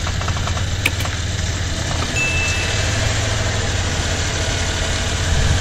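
Subaru Outback Wilderness's turbocharged 2.4-litre flat-four engine idling steadily, with a single sharp click a little under a second in.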